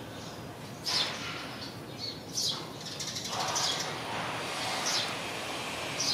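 A small bird chirping in short, high, evenly spaced notes, five in all, roughly one every second and a bit, over a steady outdoor background noise that grows slightly about halfway through.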